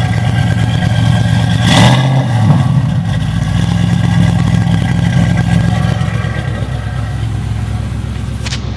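2005 Ford Mustang GT 4.6-litre three-valve V8 running steadily through an off-road H-pipe and Flowmaster Super 10 mufflers, with a short loud burst of noise about two seconds in.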